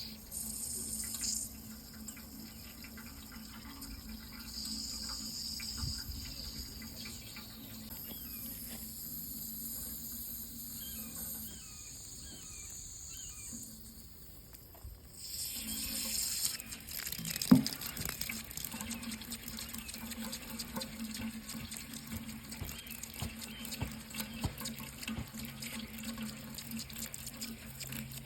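Water running steadily, with a brief lull about halfway through. A single sharp knock comes a couple of seconds after the lull.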